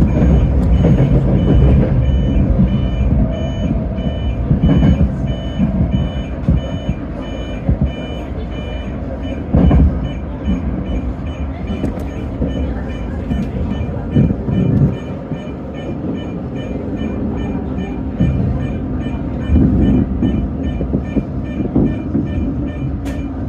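Evenly repeating electronic beeps, a station or train signal chime, sounding over low rumbling noise from a commuter train stopped at a station, with a few louder swells of rumble.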